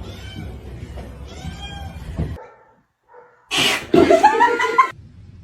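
Cat meowing, then after a brief break a louder, drawn-out cat yowl in the second half.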